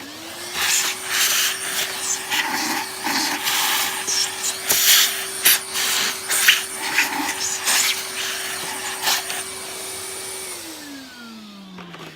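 Vacuum cleaner switched on, its motor spinning up at once to a steady whine, with crackling and rattling of dirt and debris being sucked up. It is switched off about ten and a half seconds in and the motor winds down with a falling whine.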